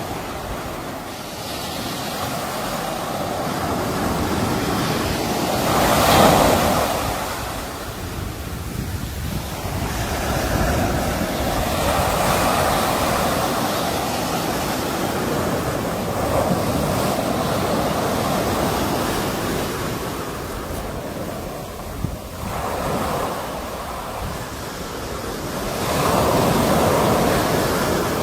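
Sea waves breaking and washing on the shore in slow, repeated swells, the loudest about six seconds in. Wind buffets the microphone.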